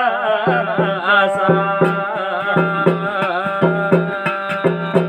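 Garhwali jagar music: a wavering sung melody over a held instrumental drone and a steady hand-drum beat of about three strokes a second.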